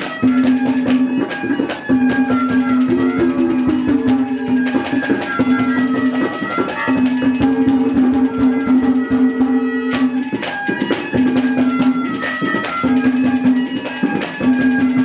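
Instrumental interlude of Haryanvi folk music: a held, droning melody line over quick hand-drum strokes.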